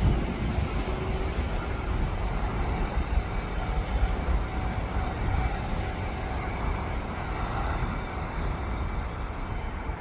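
Train running through the station, a steady low rumble that slowly fades as it moves away.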